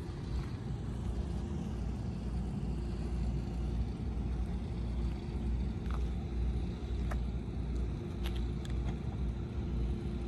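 Mercedes C63 AMG V8 idling steadily, a low even rumble with no revving, with a few light clicks after the middle.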